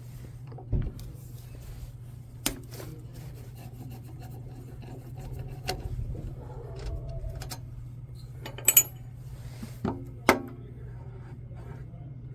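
Hand tools and metal parts knocking and clinking as the exhaust is unbolted from a small lawnmower engine, with a few sharp knocks and one ringing metal clink. A steady low hum runs underneath.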